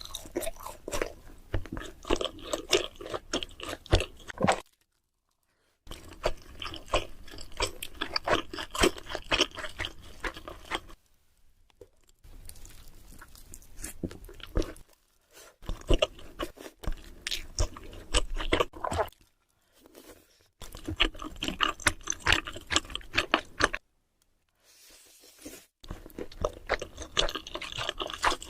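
Close-miked chewing and crunching of dumplings (mandoo), bite after bite with sharp crackly clicks. It comes in six stretches of a few seconds each, broken by short dead-silent gaps.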